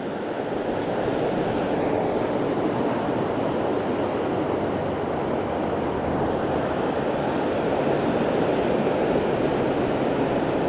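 Steady rush of surf and wind on the beach, with a faint low hum coming in near the end.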